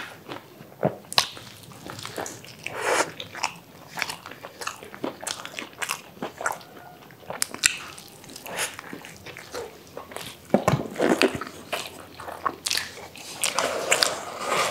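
Burgers being bitten into and chewed by two people, with irregular wet mouth clicks and smacks.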